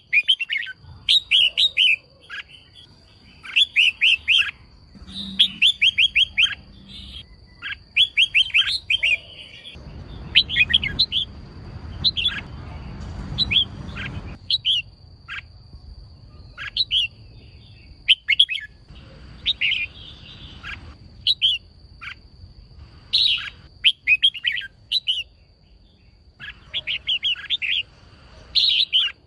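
Female red-whiskered bulbul calling: short clusters of quick, sharp chirping notes, repeated every second or two. A faint steady high whine runs underneath.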